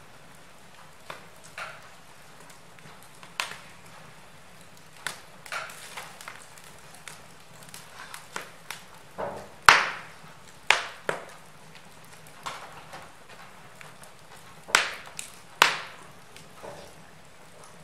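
Wood fire crackling in a fireplace: irregular sharp pops and snaps over a faint steady hiss, with the loudest cracks about ten seconds in and a pair near the end.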